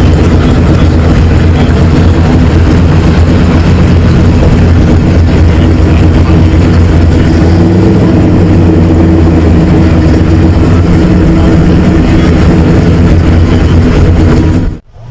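Car engine running loudly and steadily at idle, cutting off abruptly near the end.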